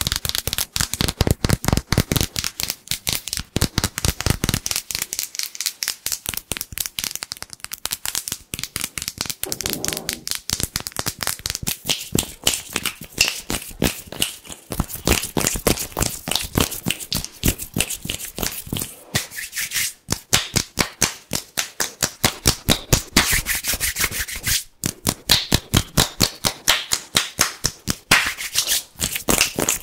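ASMR hand sounds made close to the microphone: bare hands rubbed and tapped quickly and hard, making dense, crisp crackling strokes many times a second.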